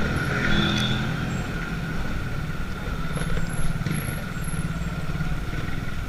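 Motorcycle engine running steadily under way, a low rumble with road noise and a steady high whine above it.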